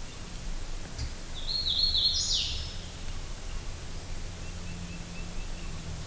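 A songbird singing a short phrase of a few high notes that step upward in pitch, followed later by a faint run of quick chips, over a steady outdoor hiss.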